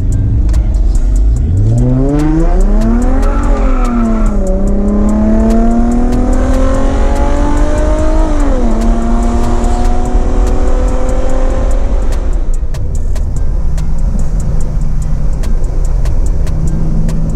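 Infiniti G35's 3.5-litre VQ35 V6 pulling hard under full throttle. The revs climb, drop at an upshift about four seconds in, climb again to a second upshift about halfway through, and rise more slowly until the throttle is lifted. The engine then settles into a low cruising drone for the last few seconds.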